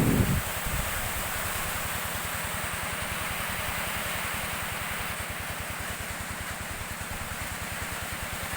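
Steady rain falling: an even hiss, with a low rumble underneath.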